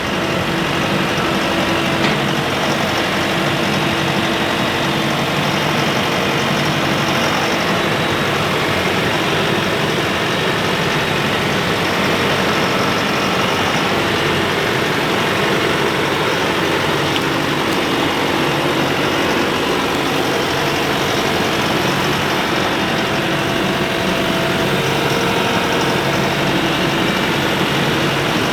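A vehicle engine running steadily, with an even drone and no change in speed.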